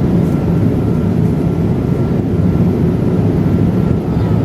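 Steady cabin noise inside a Boeing 787-8 Dreamliner in flight: a loud, even rumble of engines and airflow with a faint steady high tone running through it.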